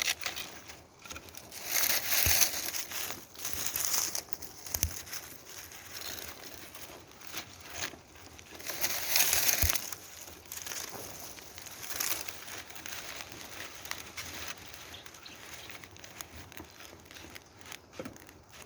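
Dry material being crumpled and handled in several rustling bursts, with a few light knocks in between. It quietens over the last few seconds.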